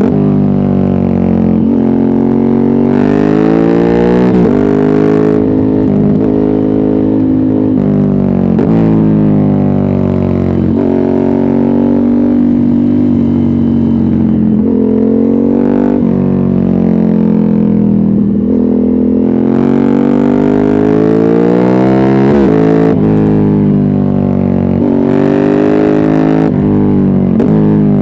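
Ducati Hypermotard 796's air-cooled L-twin engine through a de-catted Termignoni exhaust with no dB killer, ridden hard: the pitch repeatedly climbs under acceleration and drops sharply at each upshift, with stretches of falling revs as the throttle is rolled off. Loud throughout.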